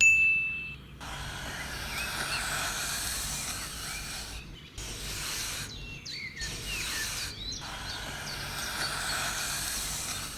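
Countryside ambience: small birds chirping over a steady rushing hiss, which drops out briefly a few times.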